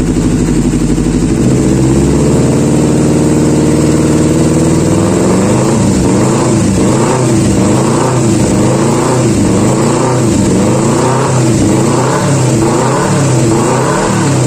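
Kawasaki Ninja 250 Fi parallel-twin engine running through an aftermarket racing exhaust. It runs steadily at first, then from about five seconds in the revs rise and fall in pitch roughly once a second.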